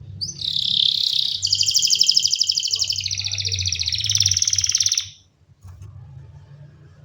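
Domestic canary singing one song phrase: a short rising note, then a long, very fast trill of rapidly repeated notes that shifts in pitch and stops abruptly about five seconds in.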